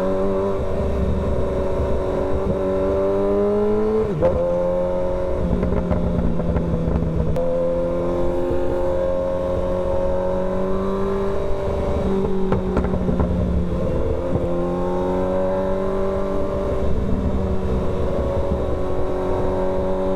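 Kawasaki ZX-6R inline-four engine under way. The engine note holds or slowly rises and then jumps in pitch several times, as at gear changes, over a low wind rumble on the microphone.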